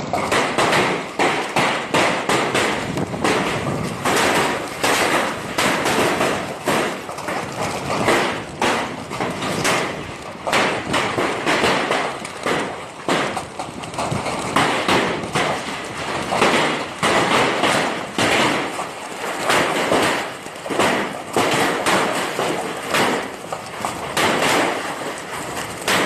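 Hailstones pelting down in a heavy hailstorm: a dense, irregular clatter of many impacts that goes on without a break.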